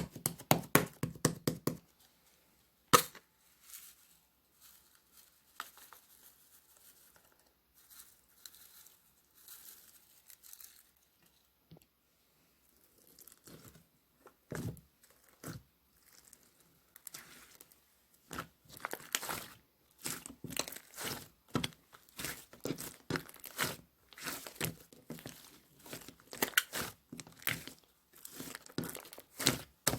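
Slime being squeezed and stretched by hand, making a run of sticky clicks and crackles. They come quickly for the first two seconds, then turn sparse and faint, and grow busier and louder again over the last third.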